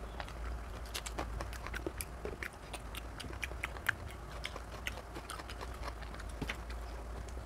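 Close-miked, wet eating sounds of a person chewing rice and mutton curry eaten by hand: irregular chewing, smacks and mouth clicks, over a steady low hum.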